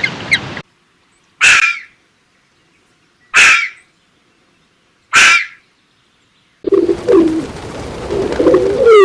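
Animal calls: three short harsh calls about two seconds apart with silence between them, then more calls with wavering, gliding pitch over a steady background noise near the end.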